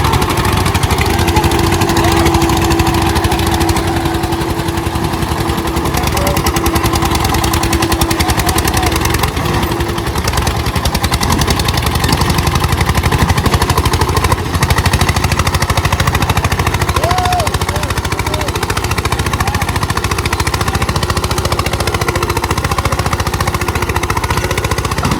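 Eicher 241 tractors' single-cylinder diesel engines running hard under full load as the two tractors pull against each other, a loud, rapid and steady pulsing exhaust beat.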